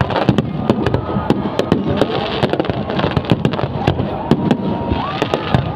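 Fireworks display: a dense, continuous run of bangs and crackling pops with no letup.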